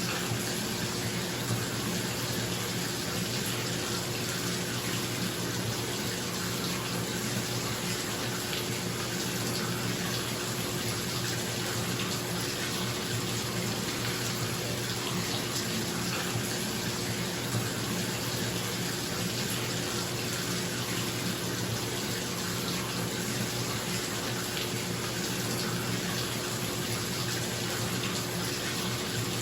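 Bathtub tap running, water pouring steadily into the tub with an even rush, over the steady hum of a bathroom exhaust fan.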